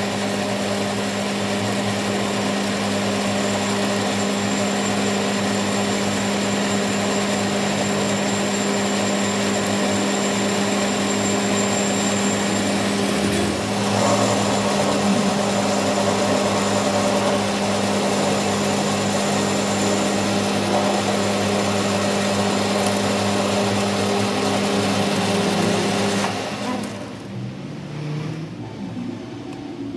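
A workshop machine running steadily with a constant hum, then stopping about 26 seconds in.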